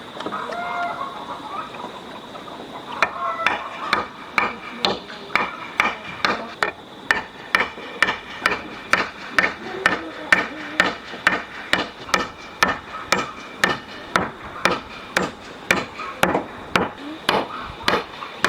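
Steady hammering on wood, about two strikes a second, starting about three seconds in.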